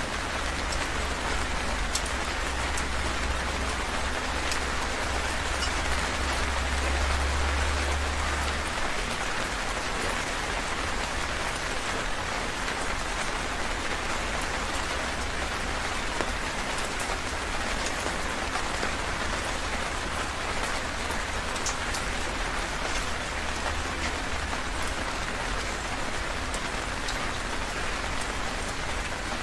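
Heavy rain falling steadily, an even hiss with scattered drop ticks. A low rumble sits underneath for about the first nine seconds, then drops away.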